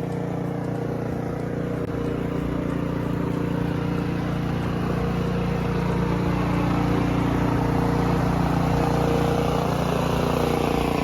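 Snowblower's small engine running steadily, clearing snow; it swells slightly partway through and fades out near the end.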